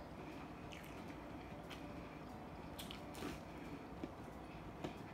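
A person chewing and biting breaded fried chicken nuggets, faint, with a handful of short clicks and smacks from the mouth over a low steady room hum.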